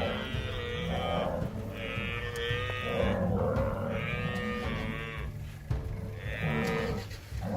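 Buffalo bawling in a series of about four long, drawn-out calls of roughly a second each, with a low music bed underneath.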